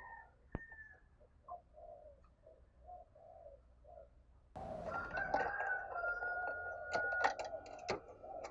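Spotted dove cooing: a run of soft, evenly spaced coos. About halfway in, the sound jumps louder, with a long held higher call and several sharp clicks near the end.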